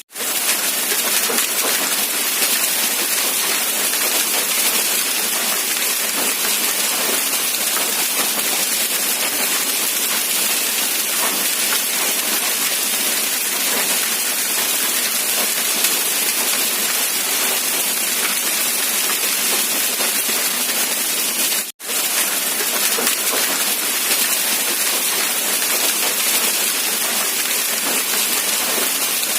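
Steady rain, an even dense hiss. It cuts out for an instant about two-thirds of the way through and comes straight back.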